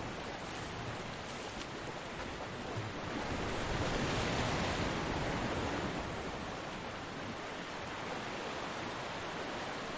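Ocean waves breaking on a beach: a steady wash of surf, with one wave swelling to a crash and then receding about three to six seconds in.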